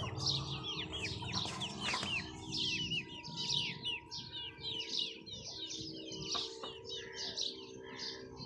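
Many small birds chirping continuously: quick, overlapping, short falling chirps, with a faint steady hum underneath.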